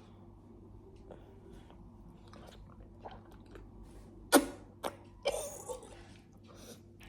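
A person eating a jelly snack close to the microphone: soft chewing and mouth clicks, with a sharp smack about four seconds in and a brief noisy slurp just after.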